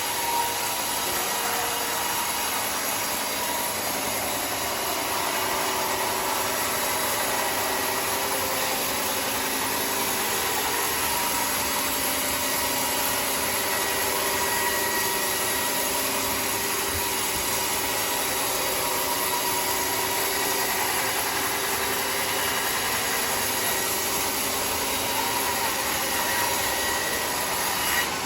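Sawmill saw running steadily, probably cutting wood, with a faint whine over a constant hiss.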